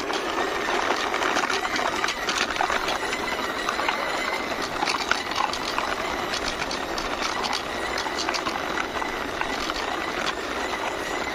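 Plastic toy covered van pushed by hand, its wheels rolling and rattling over a rough surface with a steady clatter of small clicks.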